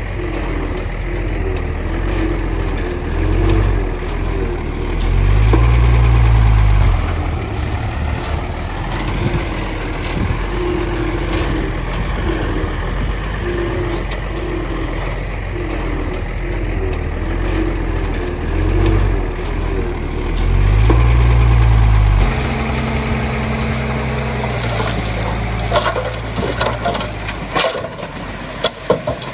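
Heavy diesel engine of earthmoving machinery running, its note swelling louder and deeper twice under load, about five seconds in and again about twenty seconds in. A run of sharp clanks near the end.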